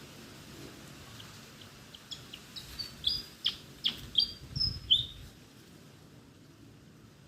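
Malaysian pied fantail singing: a quick run of short, sharp squeaky notes that grows louder for about three seconds, then stops. Wind rumbles low on the microphone.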